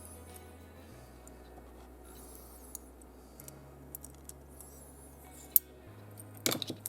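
Small metal clicks and taps from handling a diecast toy car's parts (body, base, wheels and axles) on a workbench, with one sharp click about five and a half seconds in and a short clatter near the end.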